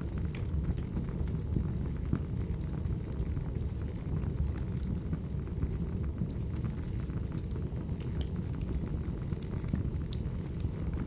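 Firewood fire burning: a steady low rumble of flames with scattered, irregular sharp crackles and pops.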